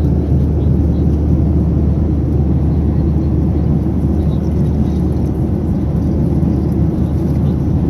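Steady low drone of a Boeing 737-800's engines and airflow heard inside the passenger cabin.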